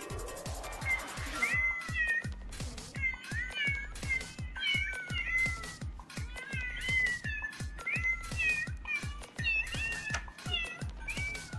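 A cat meowing over and over in short, bending high calls, over background music with a steady beat; a rising sweep in the music leads in.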